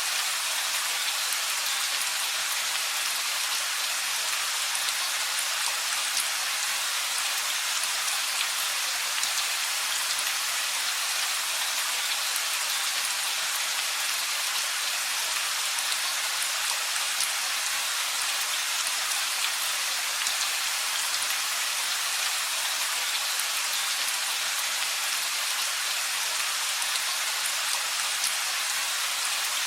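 Steady rain falling, many fine drops pattering on surfaces, with an even hiss and no thunder.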